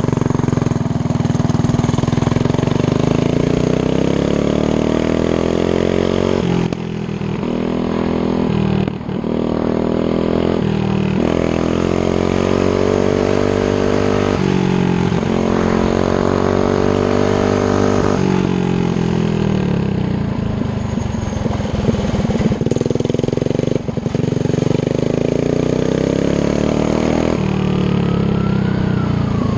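Coleman CT100U mini bike's Harbor Freight 212cc single-cylinder four-stroke engine running on the move, its pitch climbing and dropping again and again as the throttle is opened and backed off. Near the end a police siren starts with a rising then falling wail.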